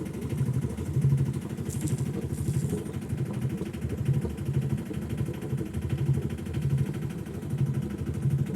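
A sailboat's engine running steadily under way, with a low throb that rises and falls about once a second.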